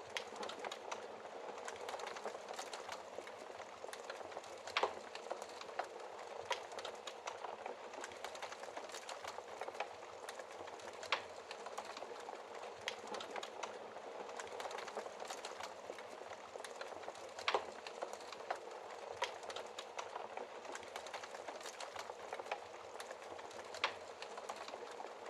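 Wood fire burning in a fireplace: a steady hiss with irregular crackles and pops, a few sharper snaps standing out.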